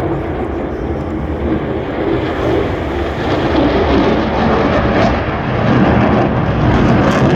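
An airplane flying past at an air show, its engine noise a steady rumble that grows louder about four seconds in and again near six seconds.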